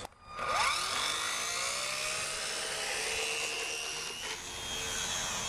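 RC model airplane motor and propeller spinning up with a rising whine, then running at a steady, high, droning pitch.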